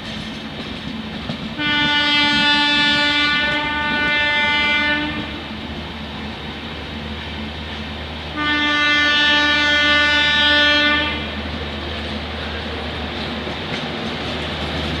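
Indian Railways locomotive horn sounding two long blasts of about three seconds each, a few seconds apart, over the steady rumble and rail clatter of a moving train.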